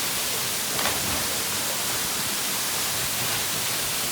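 Large waterfall crashing into its pool: a steady, even rush of falling water with no breaks, with a brief faint sound about a second in.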